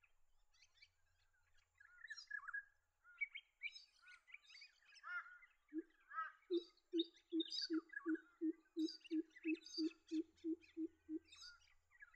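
Pheasant coucal calling: a run of about fifteen deep, evenly spaced hoots, roughly three a second, starting about halfway through. Smaller birds chirp and twitter higher up.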